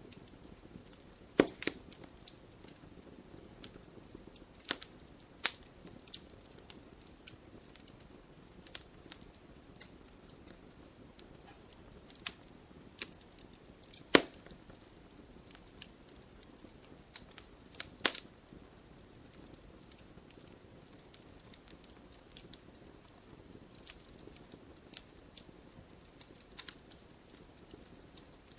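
Wood fire burning in a fireplace: a low steady hiss with sharp, irregular crackles and pops, a few of them louder.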